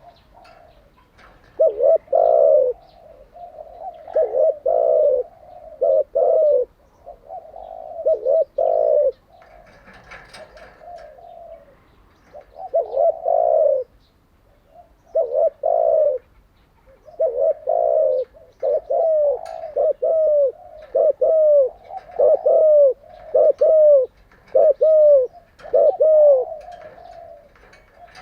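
Spotted dove cooing in repeated low phrases, with a quicker run of short coos in the second half. Faint chirps from a smaller bird are heard about a third of the way in.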